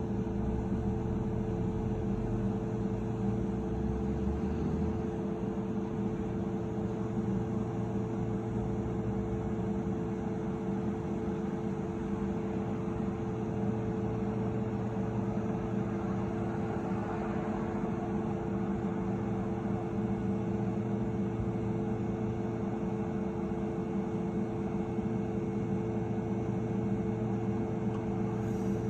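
Airbus A380's four Rolls-Royce Trent 900 jet engines running: a steady droning hum over an even rush of jet noise, holding level without rising or falling.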